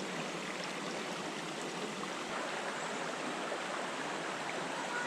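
Creek water running steadily over rocks, an even rush of flowing water with no change in level.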